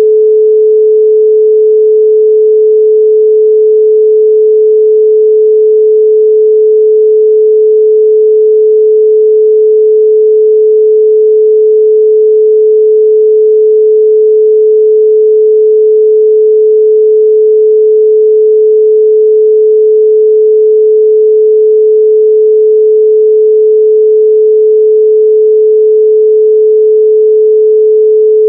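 A loud, steady 432 Hz pure sine tone: one unwavering pitch with no overtones and no breaks.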